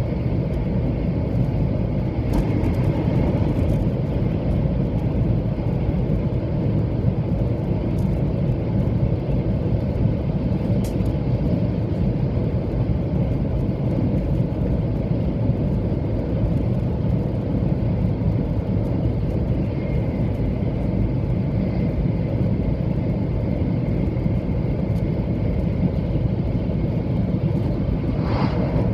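A 700-series Shinkansen running at speed, heard from inside the passenger cabin: a steady, heavy rumble of wheels, track and air, with a faint thin whine coming and going over it.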